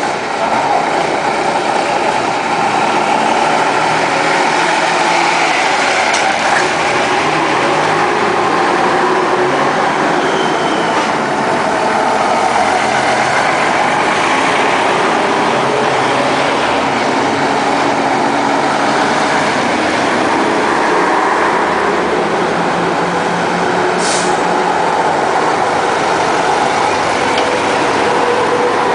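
Engines of classic trucks running steadily as they drive past, with a short hiss about 24 seconds in.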